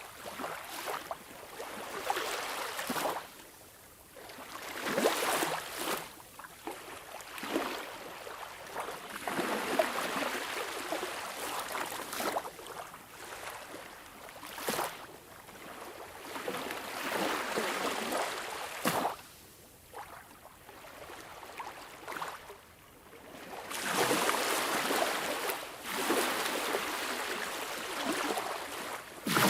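Sea waves washing in and out in irregular surges, each rush of water swelling and fading over a few seconds, with bubbling and gurgling in the wash.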